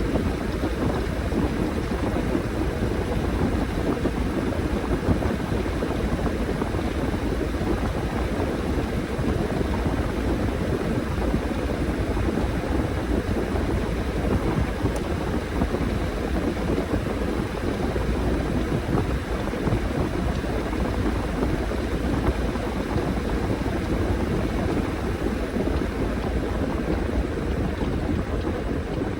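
Washing machine running a load of laundry: a steady churning of motor, water and tumbling clothes, without breaks.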